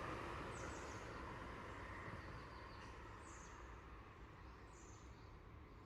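Steady outdoor background noise fading gradually, with three short, high bird chirps.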